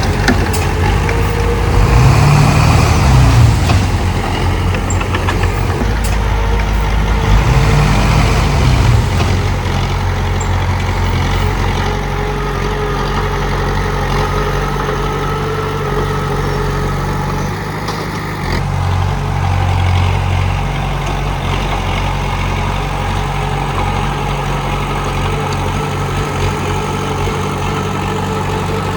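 Komatsu D31P bulldozer's diesel engine running, revving up and back down twice in the first ten seconds, then running steadily.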